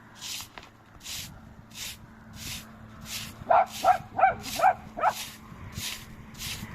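A dog barking five times in quick succession, short pitched barks about halfway through. Under it runs a regular swishing hiss, about one and a half strokes a second.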